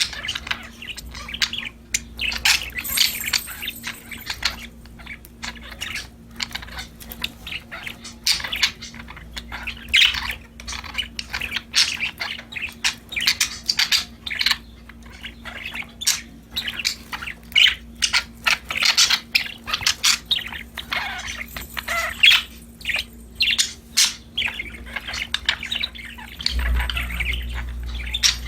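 Budgerigars chirping and warbling, a dense, continuous run of short, quick calls from several birds.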